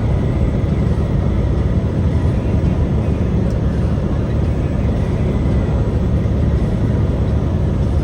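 Truck driving on the road: a steady low engine and road rumble.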